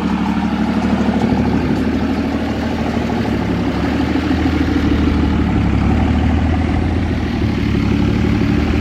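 Diesel pickup truck engine idling steadily, with a fast, even clatter.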